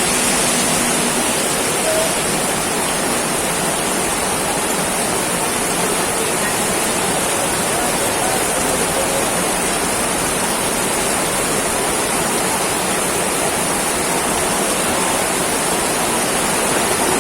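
Heavy tropical rain pouring down, a steady, unbroken hiss.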